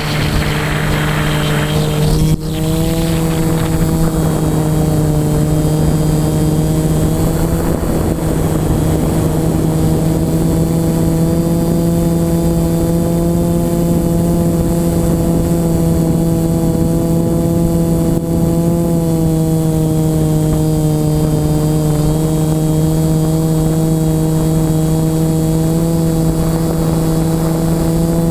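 Electric motors and propellers of an FPV model aircraft running steadily, heard close up from the onboard camera: a steady hum with overtones whose pitch wavers a little with throttle. A sharp click about two seconds in.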